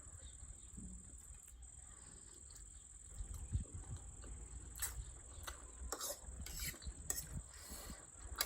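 Eating sounds from a mukbang of spicy noodles: several short, sharp mouth and utensil noises in the second half. A steady high-pitched tone continues in the background.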